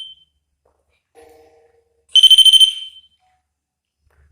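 REM pod proximity alarm going off: a short burst of rapid, high-pitched electronic beeps lasting under a second, about two seconds in.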